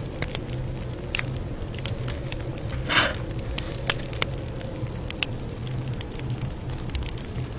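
Campfire crackling: a steady low rumble of burning wood with scattered sharp pops, and one brief louder crackle about three seconds in.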